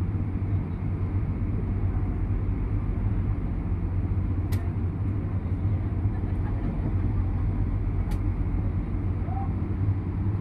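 Steady low rumble of a ship's onboard machinery while the ship lies at anchor, with two faint clicks about four and a half and eight seconds in.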